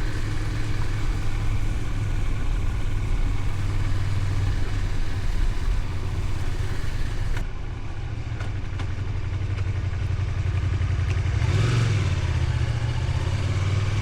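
Honda VTR250's V-twin engine running steadily under way, heard from the rider's position. About halfway through the rushing noise above the engine falls away and the engine note quietens, then near the end the engine swells and shifts pitch as it picks up again.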